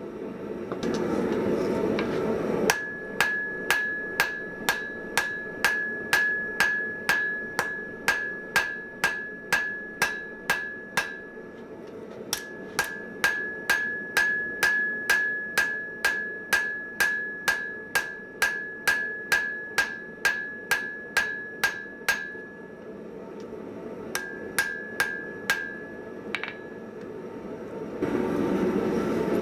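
Hand hammer striking hot mild steel on an anvil at about two blows a second, each blow leaving a bright ring, in long runs with short pauses between them. A steady rushing noise fills the first couple of seconds and returns near the end.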